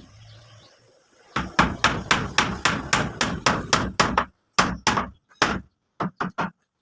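Hammer blows in a quick, even run of about four a second, then slowing to a few spaced blows and ending with a few lighter taps.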